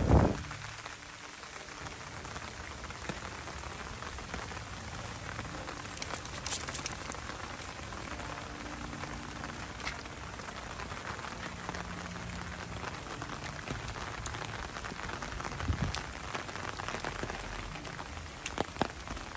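Steady rain falling, a fine even patter of drops. A short knock comes right at the start.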